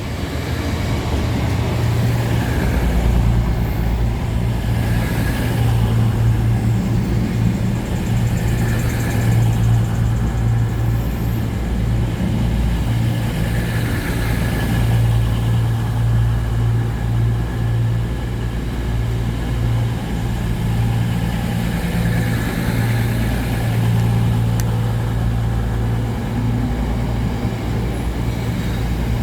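A train running with a steady low drone, its pitch and level wavering slightly throughout.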